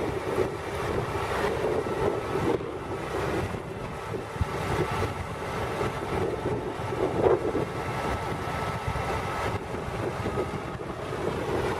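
County 1184 four-wheel-drive tractor's diesel engine running steadily while ploughing, with wind buffeting the microphone.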